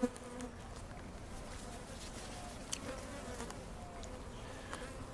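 Swarm of honey bees buzzing around the microphone, single bees passing close with a wavering hum. The bees are agitated and growing aggressive after their nest was dusted with a desiccant. A sharp click comes right at the start.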